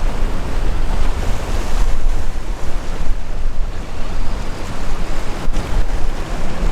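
Sea waves surging and breaking, with wind buffeting the microphone: a steady rushing noise over a heavy low rumble.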